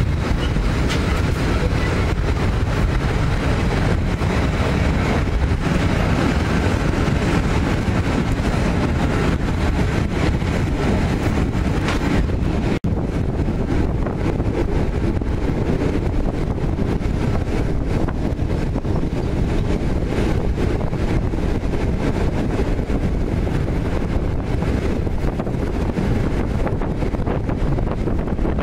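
Passenger train running at speed, recorded from a carriage window: a steady rumble of the running gear with wind buffeting the microphone. The sound cuts out for an instant about 13 seconds in.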